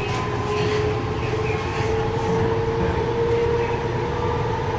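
Inside a TRAX light rail train running: a steady low rumble with a constant whine over it.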